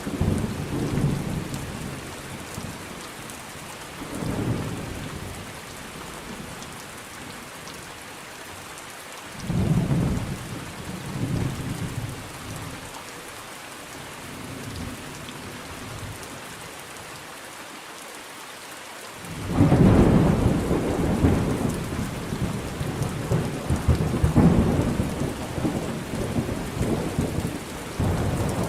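Steady rain falling during a thunderstorm, with thunder rumbling several times; the longest and loudest roll of thunder comes about two-thirds of the way through and runs on to the end.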